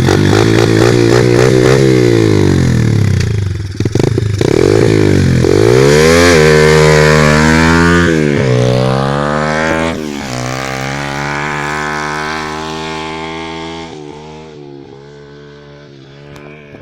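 125cc single-cylinder four-stroke Orion Pro pit bike engine revving hard, its pitch rising and falling again and again. In the last few seconds it steadies and grows fainter.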